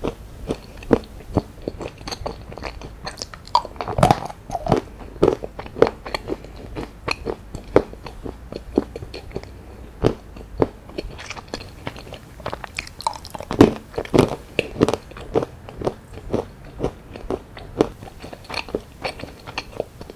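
Close-miked chewing of chocolate: a steady run of sticky mouth clicks and soft crunches, two or three a second.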